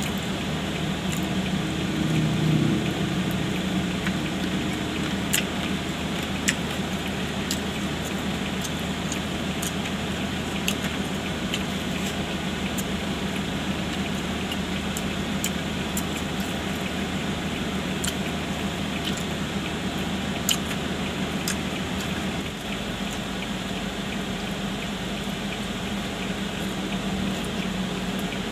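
Soft chewing: mouth smacks and small clicks from someone eating fried chicken and rice, over a steady hum inside a car cabin. The low rumble in the hum drops away about three-quarters of the way through.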